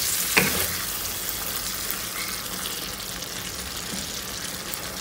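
Kidney beans frying in oily masala in a nonstick pan, a steady sizzle while a wooden spatula stirs them, with one short knock about half a second in.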